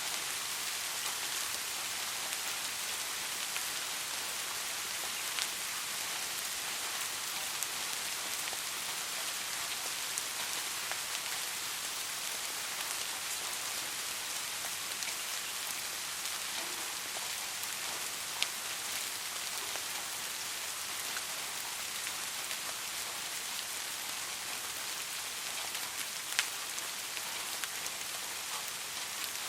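Steady soft rain falling: an even hiss with many small drop ticks, and a few louder single drops now and then.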